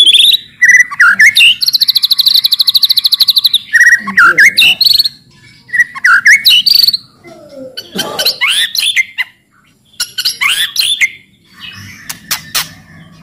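White-rumped shama (murai batu) singing loud slurred whistled phrases. About two seconds in comes a fast, even rattling chatter that lasts about two seconds. Sharp clicking notes follow near the end.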